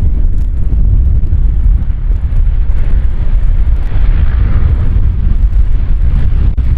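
Strong crosswind buffeting the microphone with a deep, rough rumble, while a landing airliner's engine noise swells in about halfway through and fades again.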